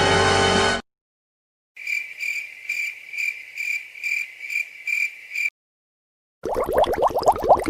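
Crickets-chirping sound effect: one high chirp repeating about twice a second for nearly four seconds, the stock cue for an awkward silence. Music cuts off about a second before it. Near the end another effect starts, made of rapid rising strokes.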